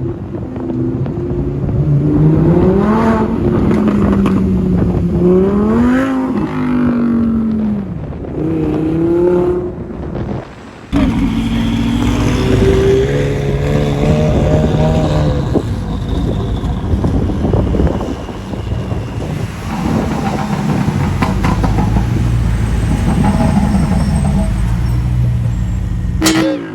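Supercar engine running hard on the road, its pitch climbing and dropping again and again as it accelerates and changes gear. The sound breaks off abruptly about eleven seconds in and comes straight back loud.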